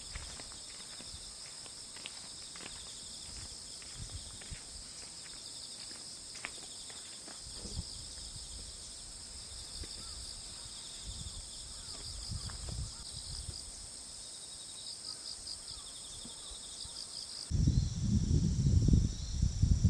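Insects chirping steadily in a high-pitched, pulsing chorus, with scattered light clicks in the first half. About three seconds before the end a loud low rumbling noise starts suddenly and becomes the loudest sound.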